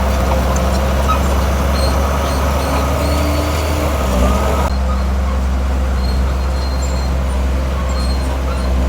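Heavy diesel construction machinery running steadily with a low engine drone. About halfway through, the higher hiss suddenly drops away.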